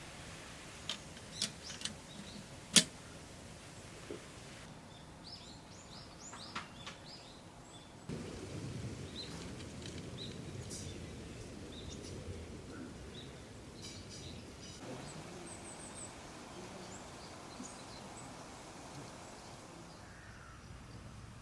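Outdoor ambience with small birds chirping in short calls, after a few sharp clicks or knocks in the first three seconds, the last of them the loudest.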